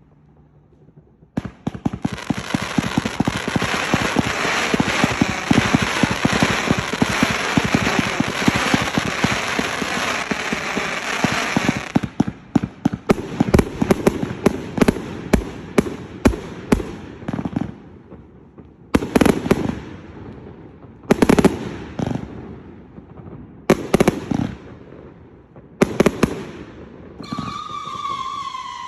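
1.2-inch fan-shaped fireworks cake firing: about ten seconds of rapid crackling shots, then single loud bangs a second or two apart with gaps between them. Near the end a falling whistle-like tone comes in.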